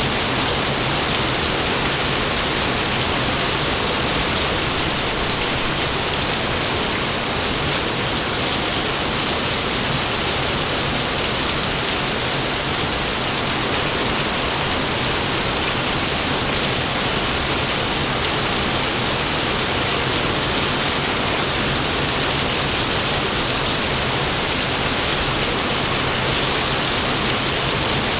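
Heavy rain falling steadily, a dense even hiss with no change in level.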